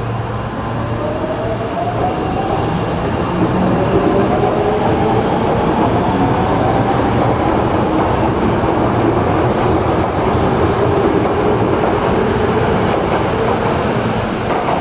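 Osaka Metro 22 series subway train accelerating: the traction motor whine climbs in pitch over the first several seconds and then holds, over the steady rumble and clatter of the wheels on the rails.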